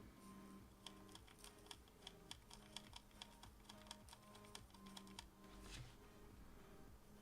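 Faint typing on a computer keyboard: a quick, uneven run of light key clicks lasting about four seconds, over quiet background music.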